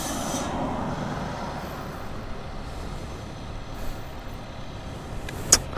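Steady rush of road-vehicle noise that eases off after the first second or two, with one sharp click near the end.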